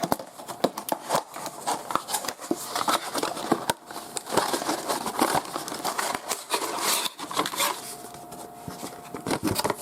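Cardboard and plastic packaging being handled as a CPU retail box is opened: irregular crinkling, rustling and small clicks.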